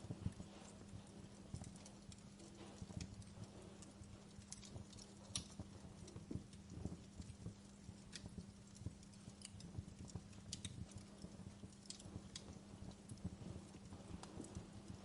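Wood fire crackling in a fireplace: irregular small pops and snaps, several a second, over a faint steady low hum.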